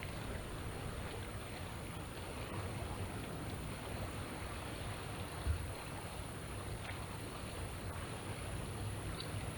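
Steady seaside ambience of small waves washing against the shore, under a low rumble, with one soft thump about five and a half seconds in.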